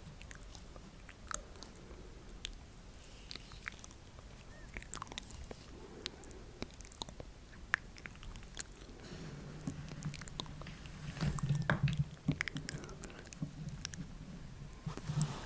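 ASMR mouth sounds close to the microphone: many soft, wet clicks and smacks scattered irregularly. A low hum joins from about nine seconds in and runs under the clicks until near the end.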